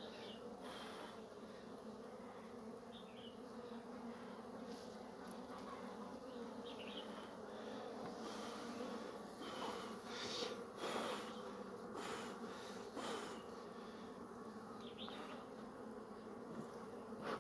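Honey bees humming in a steady drone over an opened hive crowded with bees, with a few faint short clicks through it.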